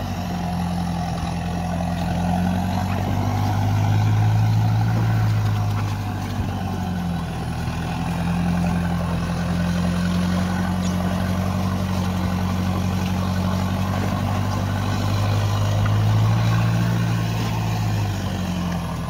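Vehicle engine running steadily under load while towing, its speed easing down and picking up again several times.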